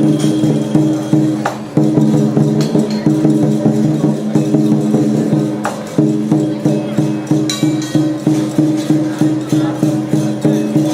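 Lion dance percussion music with a steady beat, about two to three beats a second in the second half, with occasional sharp clashes.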